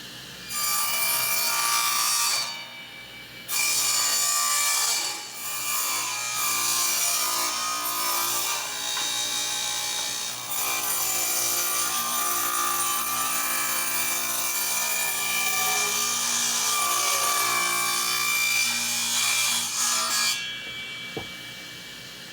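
Power saw, most likely a table saw, cutting a single blade-width groove lengthwise into a wooden top bar for the starter strip. The cut dips briefly about two and a half seconds in, then runs steadily and stops near the end.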